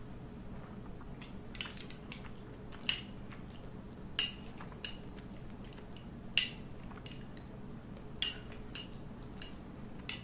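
Eating utensils clinking against dishware: about a dozen sharp, irregular clinks with a short ringing, two of them much louder, as a meal of ramen noodles is eaten. A faint steady hum underneath.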